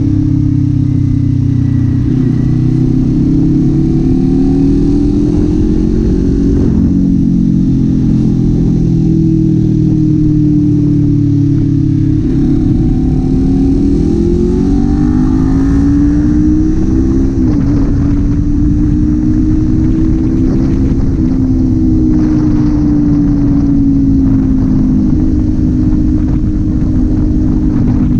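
Kawasaki Z400's parallel-twin engine and exhaust running under way, the revs climbing and then dropping back several times as the bike shifts gears.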